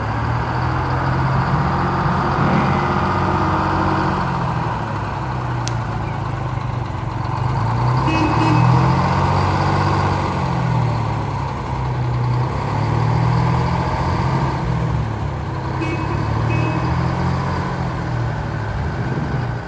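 Large parade vehicle running, with a low drone that rises and falls in pitch about every four seconds.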